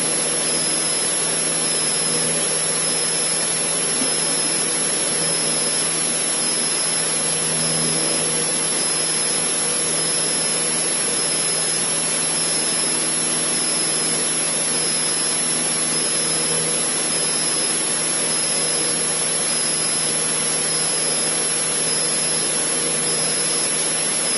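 Cessna 152's four-cylinder Lycoming engine and propeller droning steadily under power in flight, heard inside the cockpit, with a thin steady high whine on top.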